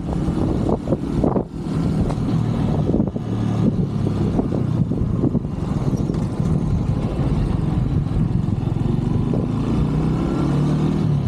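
125cc Brixton motorcycle engine running while riding, at a fairly steady pitch, with road and wind noise.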